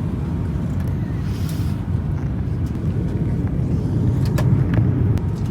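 Steady low rumble of an airliner cabin in flight, with a few light clicks.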